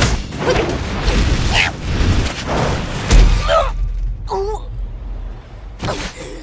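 Cartoon fight sound effects: rapid whooshes and hits, with one heavy boom about three seconds in. Short cries come a moment after the boom.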